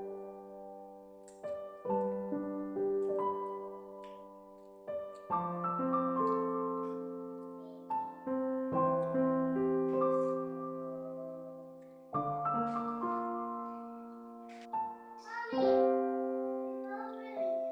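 Slow, gentle piano music: soft chords struck every second or two and left to ring out. A few faint sharp clicks sound over it.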